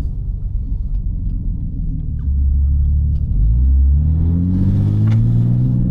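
BMW G80 M3's S58 straight-six, converted to a big single turbo, heard from inside the cabin. It runs low and even, then from about halfway through climbs steadily in revs as the car accelerates, with a hiss joining near the end.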